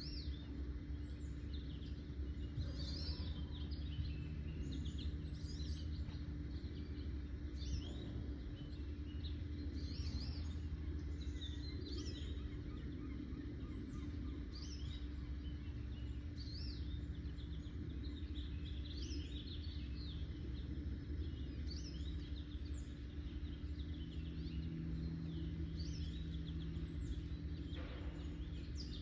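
Birds singing outdoors: short, high chirping phrases repeating every couple of seconds over a steady low background hum.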